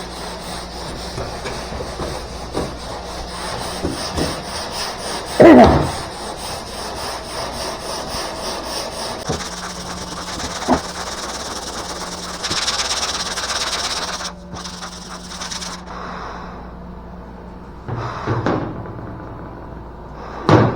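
Hand sanding of car bodywork: sandpaper on a sanding block rasping back and forth in repeated strokes, with a loud knock about five and a half seconds in. The sanding grows quieter in the last few seconds.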